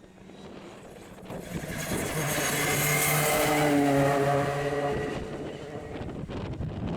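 Rally car passing at speed on a closed stage: the engine note builds up, is loudest a few seconds in, then fades as the car goes away.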